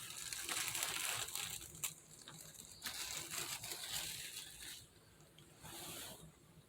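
Faint rustling and crinkling of packaging as the unboxed RC car and its box are handled, in a few short stretches, with a single click about two seconds in.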